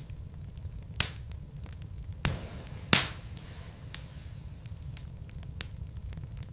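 Wood fire burning in a fireplace: a low steady rumble of flames with scattered crackles of burning logs, and three louder pops about one, two and three seconds in, the last the loudest.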